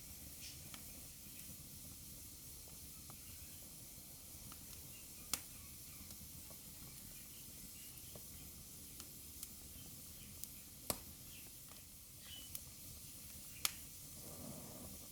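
Wood fire burning in a fireplace: a steady soft hiss with scattered crackles and a few sharp pops, three of them louder than the rest.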